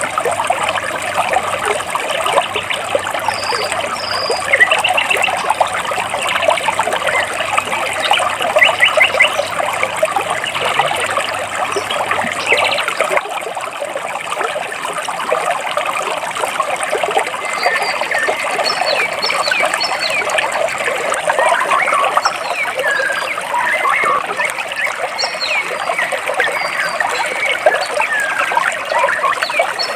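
Water trickling and splashing steadily over and between rocks, with many small birds chirping over it, the chirps busier in the second half.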